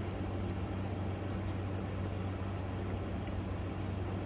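A cricket chirping without a break in a fast, even pulsing trill, over a steady low hum.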